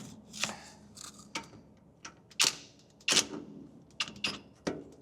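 Irregular sharp metal clicks and clanks of hand tools, a wrench and socket working a shock absorber's mounting nut loose, about eight knocks spread unevenly over the few seconds.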